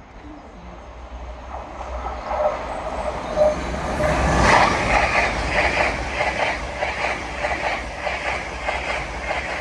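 LNER Azuma high-speed train passing through the station at speed. Its sound builds over a few seconds to a peak about halfway through, then carries on as a rhythmic clatter of wheels over the rail, about two beats a second, as the coaches go by.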